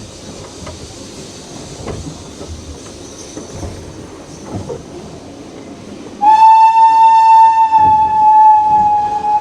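Steam locomotive whistle giving one long, steady, loud blast starting about six seconds in. Before it there is a low rumble with scattered knocks.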